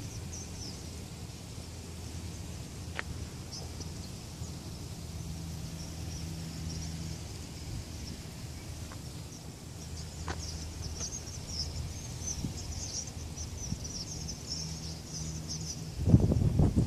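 A huge flock of birds calling together: a steady high chatter of many small chirps, growing denser about two-thirds of the way in, over a low steady rumble. A burst of loud low noise comes in about a second before the end.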